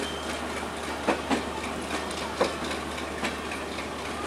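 Bangladesh Railway intercity passenger coaches rolling past on the track: a steady rumble of wheels on rail, broken by a few sharp clacks as the wheelsets cross rail joints.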